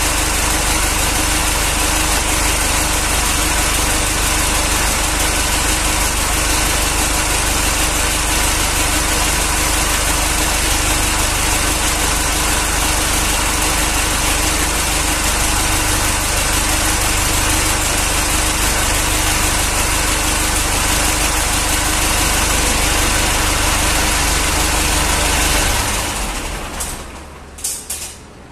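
Massey Ferguson 285 tractor's diesel engine idling steadily, freshly fitted with its rebuilt cylinder head. It is shut off near the end, running down and dying away with a few clicks.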